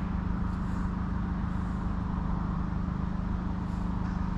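A steady, unbroken low mechanical drone with a constant hum, like a machine or engine running at an even idle.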